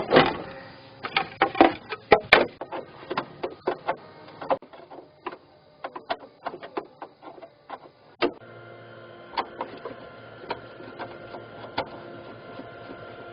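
Irregular clicks, taps and knocks of hand work on a tractor's wiring and parts, loudest at the very start. A faint steady hum joins underneath about eight seconds in.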